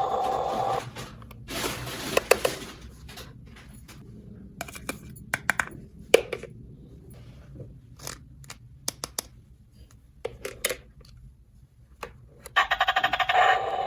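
Small plastic toy pieces being handled and set down: scattered light clicks and taps with some brief scraping. Background music plays in the first second and returns near the end.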